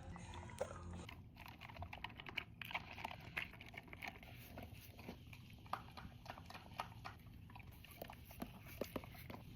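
Faint, irregular crunching clicks of a pet chewing, several small bites a second with short pauses.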